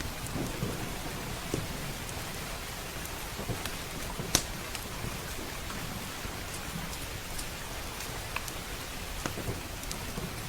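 Steady rain drumming on windows and roof, with thunder rumbling low underneath. Sharp crackles from a wood fire pop at irregular moments, the loudest about four seconds in.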